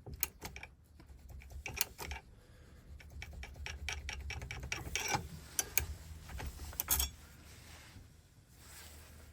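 Key blank being worked back and forth in a Ford five-pin ignition lock cylinder, a run of quick metallic clicks and rattles that thins out after about seven seconds. The blank is being turned against the pins so that they leave marks to file to.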